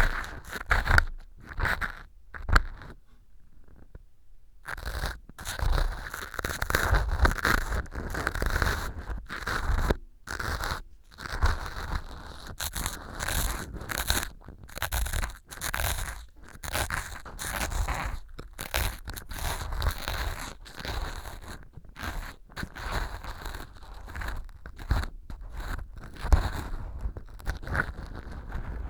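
Ear pick scraping and crunching small pieces of dry floral foam used as fake earwax inside a silicone ear model, close to a binaural microphone. Irregular strokes with short pauses between them.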